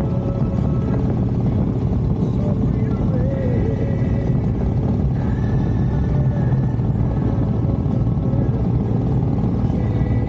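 Harley-Davidson motorcycle's V-twin engine running with a steady, loud low rumble.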